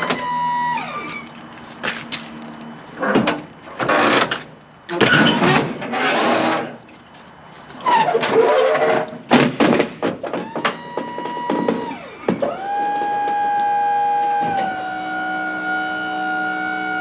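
Electric-hydraulic lift gate on a box truck being operated. The pump motor whines steadily and winds down, falling in pitch, about a second in. Bursts of metallic clattering and rattling from the gate platform follow. The pump whine starts again in the second half, holds steady and drops slightly in pitch a few seconds later.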